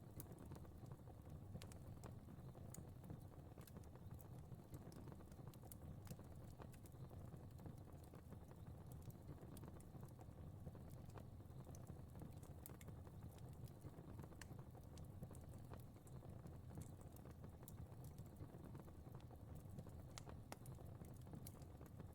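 Fire crackling faintly in a fireplace: irregular small pops and snaps over a low, steady rumble.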